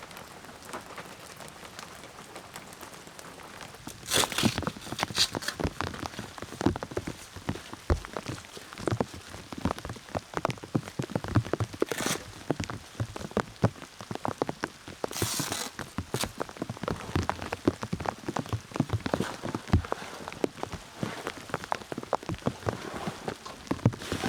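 Rain falling, with a steady light hiss at first, then louder from about four seconds in, with many separate drops striking close by in an irregular stream of sharp ticks.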